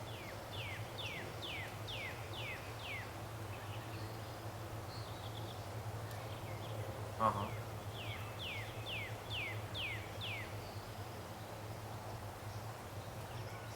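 A bird singing two runs of about seven quick downward-slurred whistles, over a steady low hum. A short, louder pitched call cuts in about seven seconds in.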